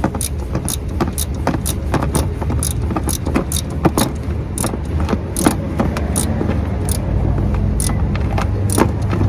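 Ratchet wrench clicking in quick, even strokes, about three to four clicks a second, as it works the Harley's oil drain plug loose. A steady low rumble runs underneath.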